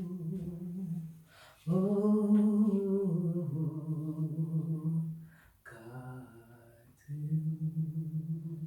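A single voice humming long, steady held notes, one after another with short pauses between them. The pitch drops a step about three and a half seconds in, and a softer, lower note comes around the sixth second.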